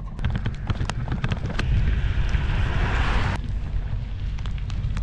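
Wind buffeting the microphone in a steady low rumble, with many small sharp clicks through it. A rushing hiss swells about two seconds in and cuts off suddenly a little past three seconds.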